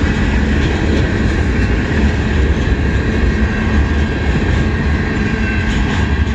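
Canadian National mixed freight train's boxcars rolling past close by, with a steady rumble of steel wheels on rail.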